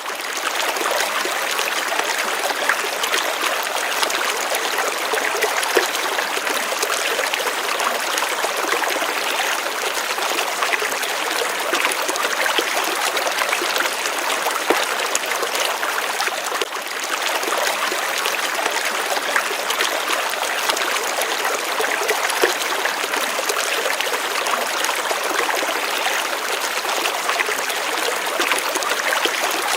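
Gently running water: a steady, even rush of flowing and splashing water.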